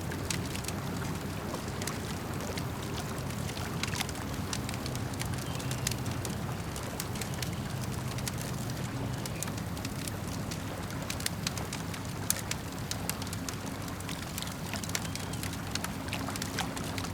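Campfire crackling with irregular sharp pops and snaps, over a steady low wash of lake water lapping.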